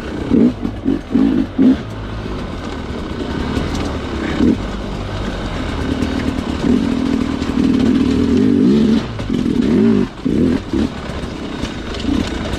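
Sherco two-stroke dirt bike engine: a quick series of short throttle blips in the first couple of seconds, a longer stretch of held throttle from about six to ten seconds in, then more short blips.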